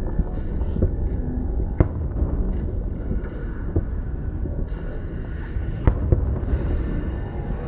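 Fireworks going off: sharp bangs over a steady low rumble. The loudest bang comes about two seconds in, and two more follow close together about six seconds in.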